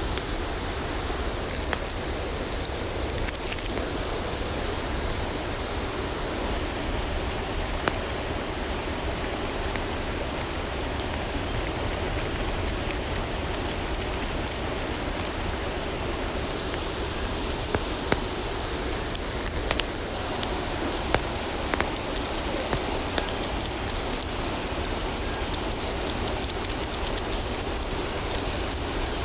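Steady rushing noise of water, with a handful of sharp ticks or pops scattered through it, mostly in the second half.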